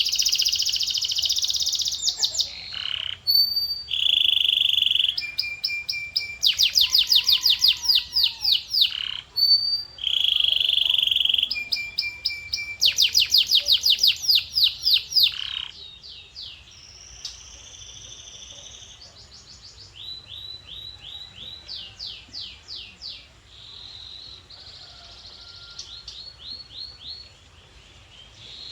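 Male canary singing: rapid trills of repeated rising notes alternate with held whistled tones. The song is loud for about the first half, then goes on more quietly.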